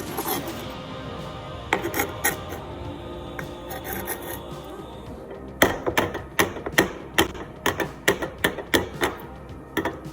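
A kitchen knife scraping and rubbing over chopped vegetables on a cutting board, then, about halfway in, chopping them with quick repeated strikes on the board, about two to three a second.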